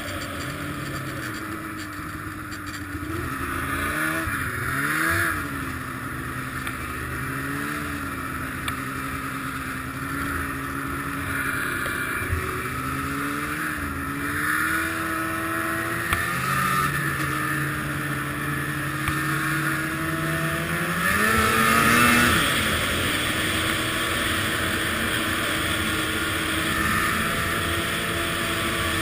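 Arctic Cat ZR 800 snowmobile's two-stroke engine running under way, its pitch rising and falling with the throttle, loudest in a surge about 22 seconds in.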